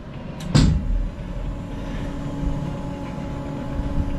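A sharp clunk about half a second in, then the steady hum and rumble of an amusement ride's machinery running.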